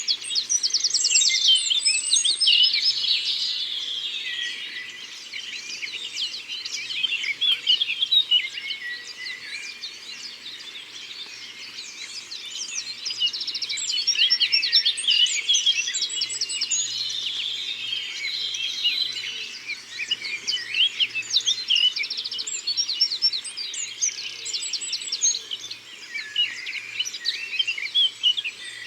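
A chorus of many birds singing and calling at once, with overlapping high chirps and quick trills.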